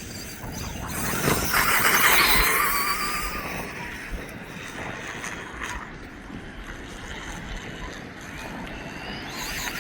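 Electric RC dirt bike's motor whining as it runs over dirt, with tyre and ground noise. Loudest as it passes about two seconds in, and a rising whine as it speeds up again near the end.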